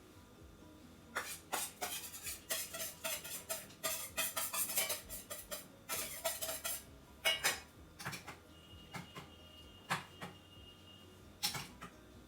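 A metal spoon scraping and clinking against bowls as the tempering is spooned into the hot pepper water and stirred in: a busy run of scrapes and clinks for several seconds, then a few more separate clinks, one of them ringing briefly.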